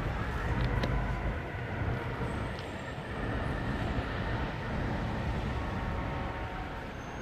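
Freight train rumbling steadily along the track as it moves off, with faint thin high tones above the low rumble.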